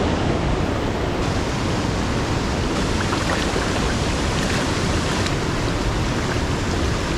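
Steady, loud rushing noise, even and unbroken, with no distinct tones.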